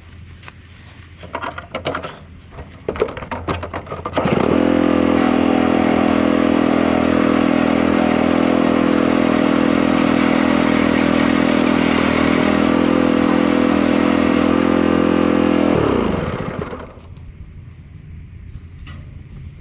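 A few sharp knocks or cracks, then an engine comes in suddenly at high, steady revs. It holds there for about eleven seconds, then drops in pitch as it is let back down.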